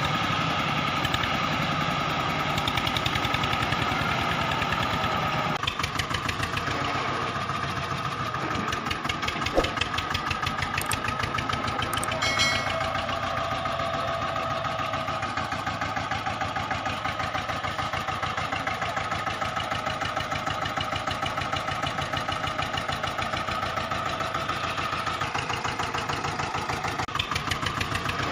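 An engine running steadily with a fast, even chugging and a constant whine, like a small tractor engine at idle. There is a single sharp click about ten seconds in and a short pitched squeak a couple of seconds later.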